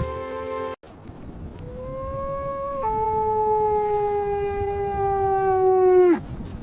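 A long drawn-out animal call on a single note with few overtones. It rises, steps down and slides slowly lower for a few seconds, then drops off at the end. It comes after a held tone that cuts off sharply a little under a second in.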